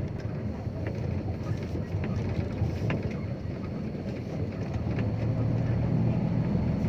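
Dump truck's diesel engine running while driving, heard from inside the cab as a steady low rumble with rattles and road noise; the engine note grows louder about five seconds in.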